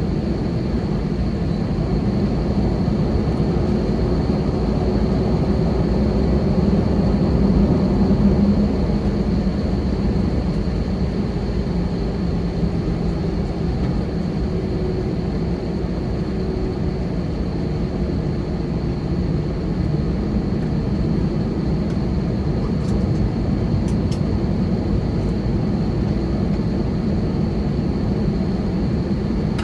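Steady cabin rumble of a taxiing Airbus A320, with a faint high steady whine over it. It swells slightly about eight seconds in.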